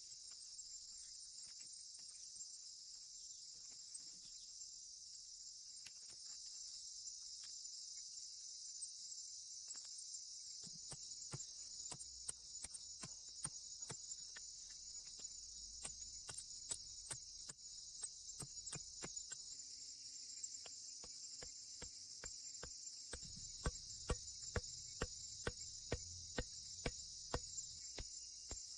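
Insects, typical of crickets, chirring in a steady high-pitched chorus. Sharp clicks or taps come through it in the second half, settling into about two a second near the end.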